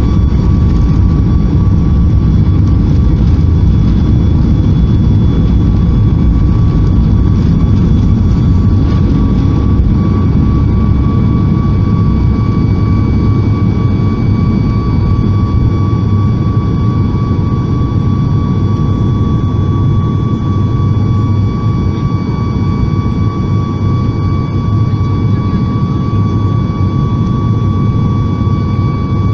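Cabin noise of a Boeing 737 MAX 8 with its CFM LEAP-1B turbofans at high power: a steady, loud rumble with a thin, steady engine whine over it, easing slightly about halfway through.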